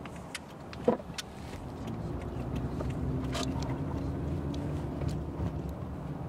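A 2008 Toyota Camry LE heard from inside the cabin as it pulls away: engine and road noise grow louder over the first couple of seconds, then hold steady as the car drives on.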